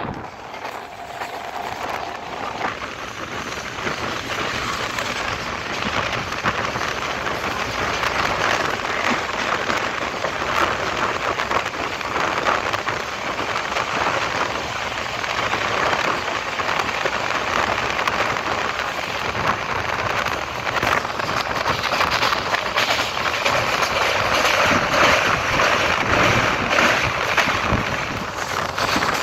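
Running noise of a moving passenger train heard from an open coach window: a steady rush of wheels on rail and passing air. It grows louder over the first few seconds, then holds.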